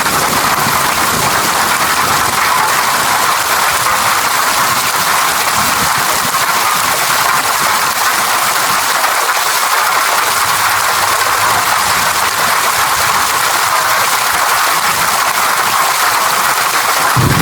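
Steady rain falling, an even, unbroken hiss of water with no distinct separate drops.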